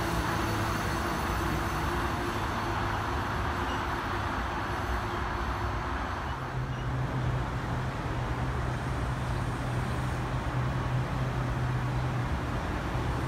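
Amtrak train's passenger cars rumbling past on the rails and fading as the last car goes by. About six seconds in, a New Jersey Transit electric multiple-unit commuter train is heard pulling in along the platform with a steady low hum.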